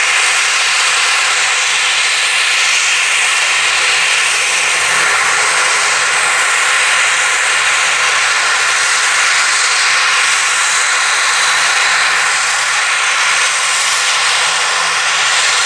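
Airliner-class aircraft engines running loudly and steadily, a constant rushing noise with no rise or fall.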